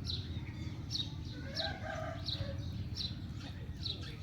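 Chickens calling: short high peeps repeat about every two-thirds of a second, with a longer call in the middle, over a steady low rumble.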